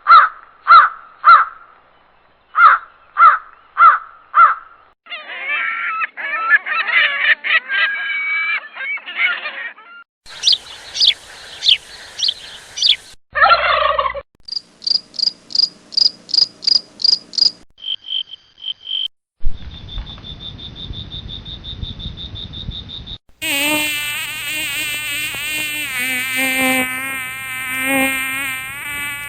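A sequence of short animal sound-effect clips: first repeated separate calls, then a series of falling chirps. After that come a run of rapid, evenly spaced high chirps and a steady high tone. From a little before the end it becomes a long, wavering mosquito buzz.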